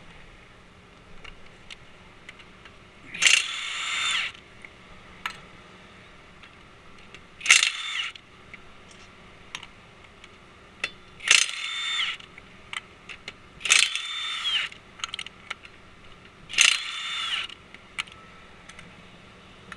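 Cordless impact wrench run in five bursts about a second each, whining and hammering as it spins lug nuts off the wheel, with small clicks and handling noises between bursts.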